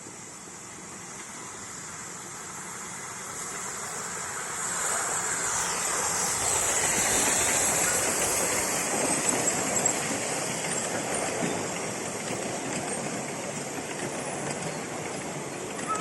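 Steam-hauled train approaching and passing on the rails, growing steadily louder to a peak about seven to ten seconds in, then slowly fading as it moves away.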